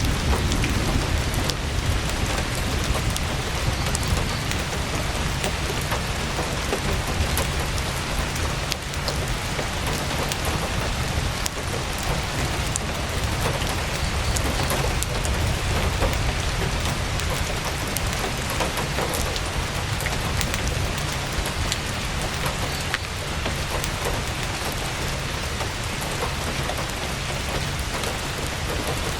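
Heavy rain pattering steadily on tent fabric, with scattered sharp crackles from a campfire and a low rumble underneath.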